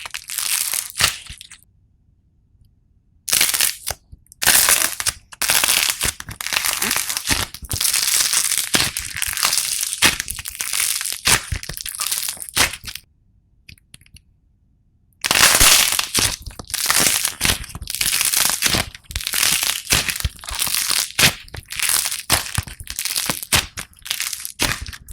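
Slime being squeezed and pressed by hand, giving dense crackling and popping in long runs, with two short pauses: about two seconds in and just past the middle.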